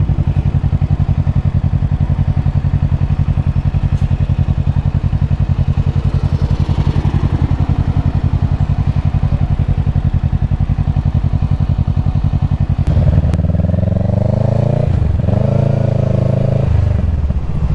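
Kawasaki Ninja 650 parallel-twin engine running at a low, steady engine speed while moving slowly. About thirteen seconds in, a louder pitched sound with shifting tones joins it.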